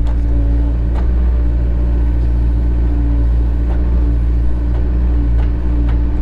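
Cat 307 excavator's diesel engine running steadily, with a few faint clicks over it.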